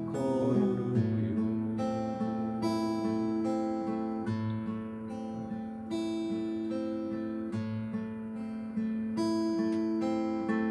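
Acoustic guitar strumming slow chords in the song's closing bars, about one chord every one and a half seconds, each left to ring.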